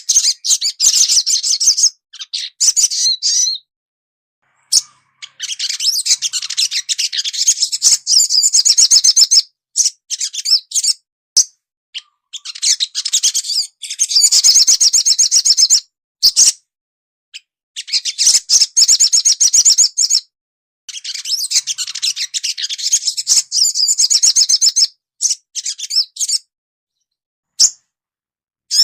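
Sogon (ruby-cheeked sunbird) singing: rapid, high-pitched twittering trills in bouts of a few seconds, broken by short, sudden silences.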